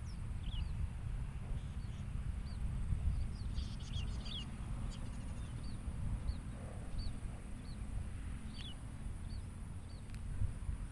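Small birds chirping outdoors: short, high chirps repeated every second or so, with a cluster of several calls about four seconds in, over a steady low rumble.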